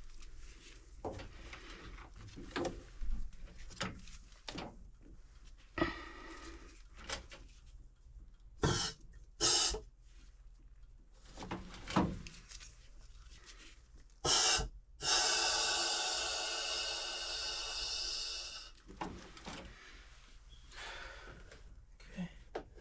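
Air forced through a furnace's condensate drain tube to blow out a dirt blockage: a few short blasts about a third of the way in and past halfway, then one long blow of about four seconds that slowly fades, with light knocks and handling clicks in between.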